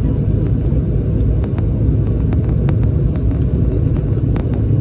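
Steady, loud cabin rumble of a Bombardier CRJ900 airliner in flight, with its two rear-mounted GE CF34-8C5 turbofans running, and a few faint clicks.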